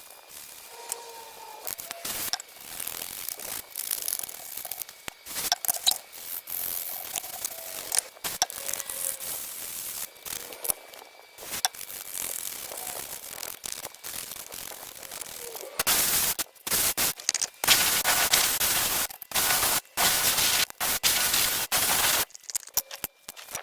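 Hand tools scraping and clicking against a glue-sealed car electronic control module as it is pried open and the glue worked off. Irregular clicks and short scrapes throughout, then a run of loud, rough scraping strokes about two-thirds of the way in.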